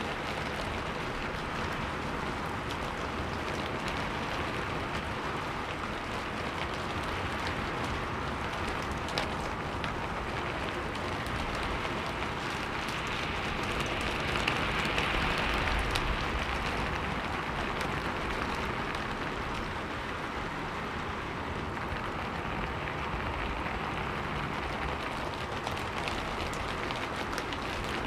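Steady rain, a rain-sound backing track, that swells slightly about halfway through, with a few faint ticks.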